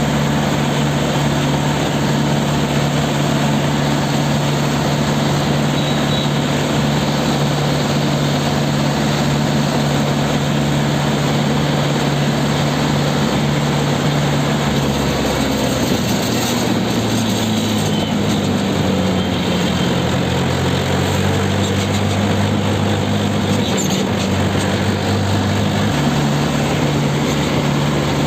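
Tractor diesel engine running steadily on the move, over road noise. A little past halfway the engine note drops lower for about ten seconds, then climbs back near the end.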